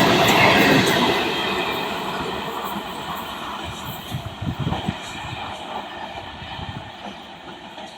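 Electric multiple-unit (EMU) local train running past, its rumble and wheel noise fading steadily as it moves away, with a few low knocks about halfway through.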